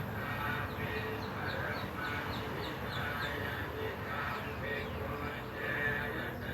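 Birds calling, with a quick run of short high chirps, about three a second, through the first half, over a steady busy background.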